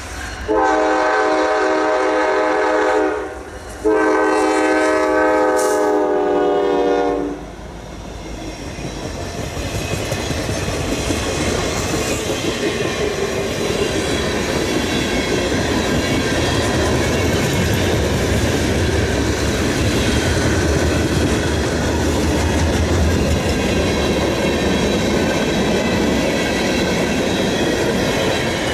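Locomotive air horn sounds two long blasts, each a steady chord of several tones. Then a train rolls past with a steady rail noise and a deep rumble.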